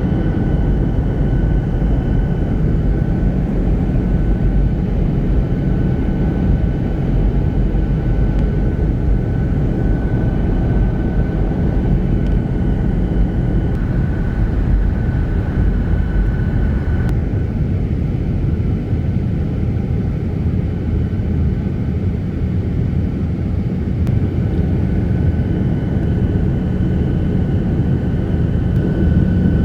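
Airliner cabin noise in flight: a steady, loud rumble of engines and rushing air with a faint high whine that fades out a little past halfway and returns near the end.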